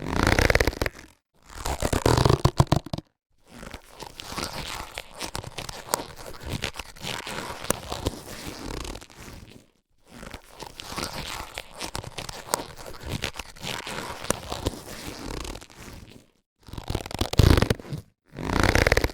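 Latex surgical gloves being handled, rubbed and stretched, heard as rubbery crinkling and squeaking in separate bursts with short silences between. Two short, louder bursts open and close it, with two long, quieter stretches of rubbing in the middle.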